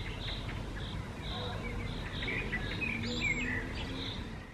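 Small birds chirping, short high notes repeated several times a second, over a steady low background rumble.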